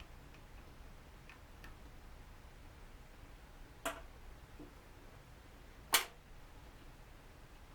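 Two sharp clicks about two seconds apart, the second louder, with a few fainter ticks before them: small tools or parts tapped and set down on a workbench.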